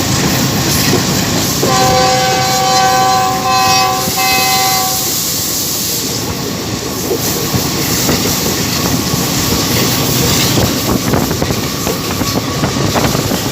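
A Pakistan Railways GEU 20 diesel-electric locomotive sounds its multi-tone horn about two seconds in, for roughly three seconds with a couple of short breaks. The train runs at speed under the horn, and afterwards the wheel clatter over the rails and the rushing wind carry on.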